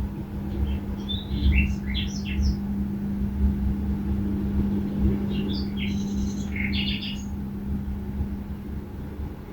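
Small songbirds chirping in two short flurries, one near the start and one about five seconds in, over a steady low hum and rumble.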